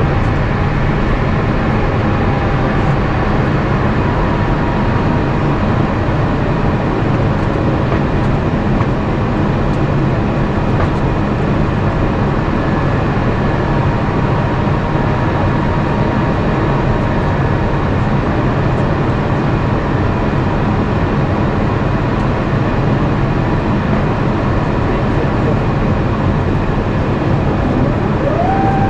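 Steady in-flight cabin noise of an Airbus A350-900: airflow and the Rolls-Royce Trent XWB engines heard from a seat in the cabin. Near the end a steady whine comes in, rising quickly in pitch and then holding.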